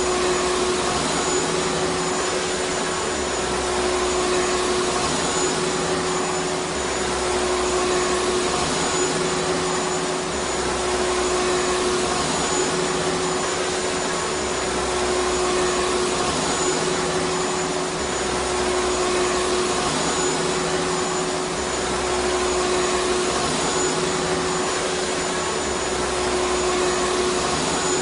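Vacuum cleaner running steadily, a dense rushing noise with a constant hum. The sound swells and eases slightly every few seconds.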